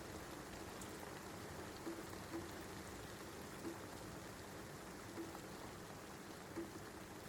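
Steady rain falling, with a louder single drop landing every second or two at irregular intervals.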